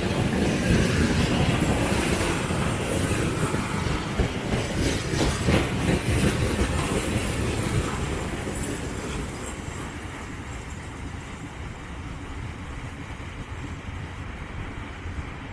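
Freight train's wagons rumbling and clattering over the rail joints as they pass, with a few sharp clicks midway, then fading away as the train recedes.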